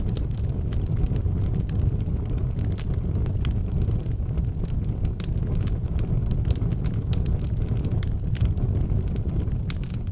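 Wood fire burning in an outdoor fireplace: a steady low rumble with frequent, irregular sharp crackles and pops.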